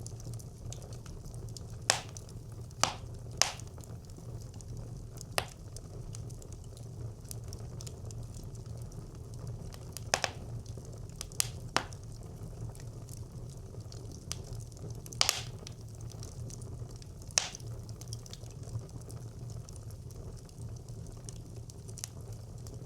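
Wood fire burning in a brick clay stove: a steady low rumble and soft hiss of flames, with sharp crackles and pops from the burning wood every second or few, at irregular intervals.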